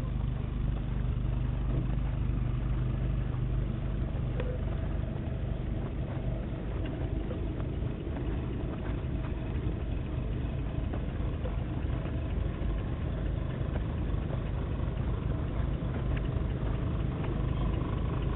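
Jeep engines running as off-road Jeeps drive slowly past one after another, with a steady low engine hum.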